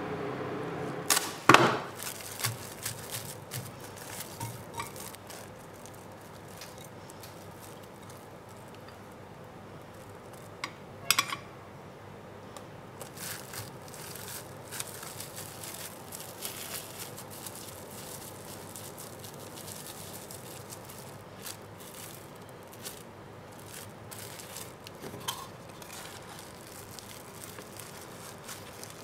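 Kitchen handling sounds: a few sharp knocks and clinks of utensils and dishes, loudest about a second in and again about eleven seconds in, with lighter tapping and clicking between.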